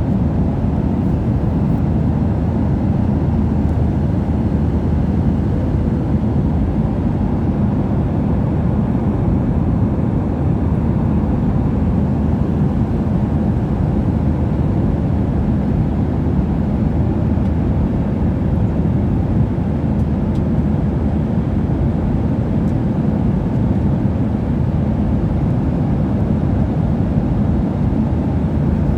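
Airliner cabin noise in flight: the steady low rumble of the engines and the airflow, heard from inside the passenger cabin.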